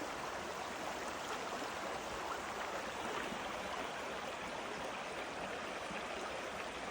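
Creek in high run-off after heavy rain, its water rushing and gurgling steadily.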